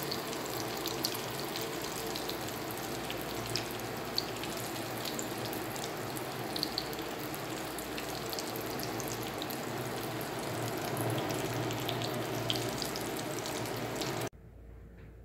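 Breadcrumbed potato cutlets shallow-frying in oil in a frying pan: a steady sizzle with scattered small pops and crackles, cutting off suddenly near the end.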